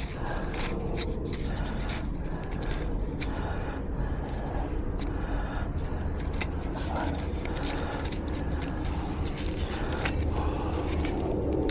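Small metallic clicks and scraping of tools working in a garage door lock cylinder, over a steady low rumble.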